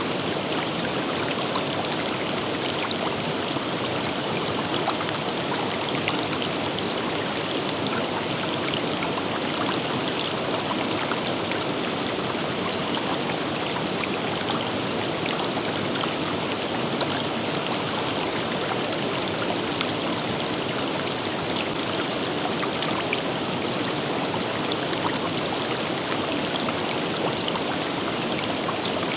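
A forest river flowing steadily over rocks, a continuous rushing with many small splashes and gurgles.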